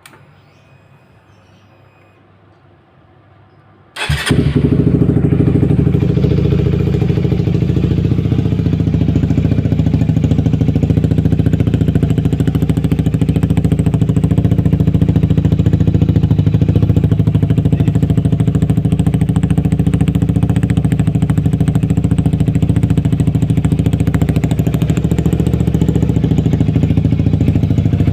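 Honda CBR150R's single-cylinder engine starting about four seconds in and then idling steadily through an aftermarket Emotion Italian-style exhaust.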